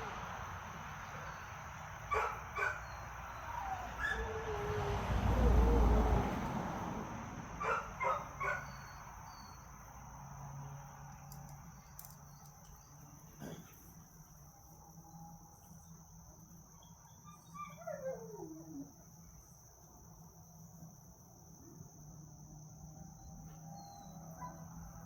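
Dogs at play, with scattered short yips and a falling whine about two-thirds of the way through, over a steady high insect drone. A louder low rumble swells briefly around five to six seconds in.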